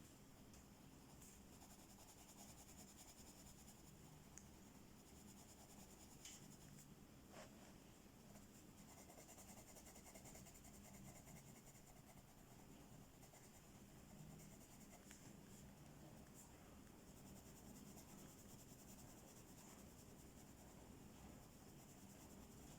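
Faint, steady scratching of a colouring tool on paper, with a couple of light clicks.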